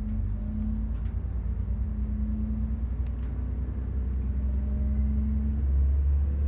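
Diesel railcar heard from inside the carriage as it pulls away from a station and gathers speed: a steady low engine and running rumble with a held hum, growing slowly louder. A few faint clicks come through about a second and three seconds in.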